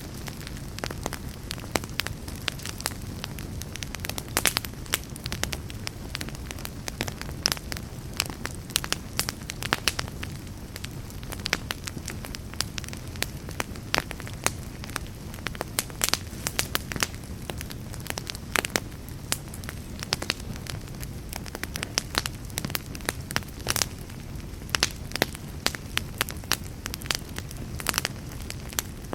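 Wood fire burning in a fireplace: a steady low rumble of flames under dense, irregular crackles and pops from the burning logs.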